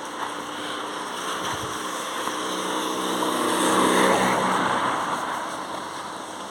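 A motor vehicle passing by: its engine grows louder to a peak about four seconds in, then fades away, over a steady background hiss.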